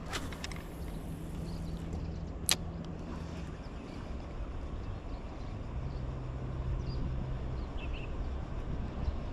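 A low rumble with a steady motor-like hum, and a few sharp clicks near the start and one louder click about two and a half seconds in.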